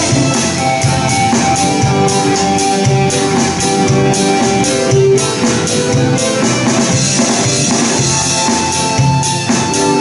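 Live pop-rock band playing an instrumental passage: drum kit keeping a steady beat under held keyboard and guitar notes, with bass.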